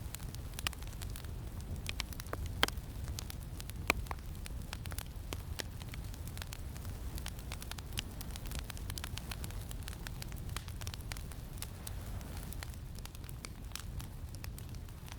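Campfire crackling with many small irregular pops, two sharper pops about two and a half and four seconds in, over a steady low rumble.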